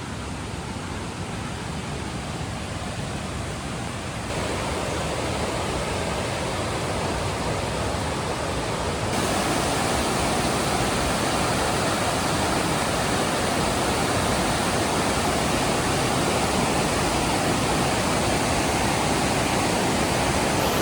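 Steady rushing noise of the Mae Ya waterfall, which jumps louder in two sudden steps, about four seconds in and again about nine seconds in.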